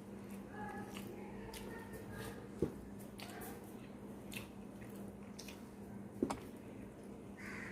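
Close-up eating sounds of a rice-and-curry meal: wet squishing and chewing, with two sharp clicks, the loudest sounds, about two and a half and six seconds in.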